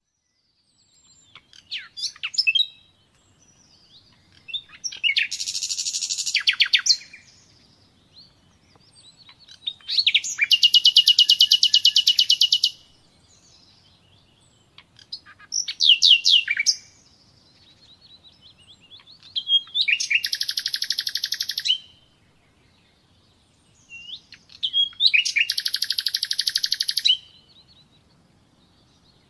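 A nightingale singing in separate phrases with short pauses between them: quick whistled notes and several fast rattling trills of about two seconds each.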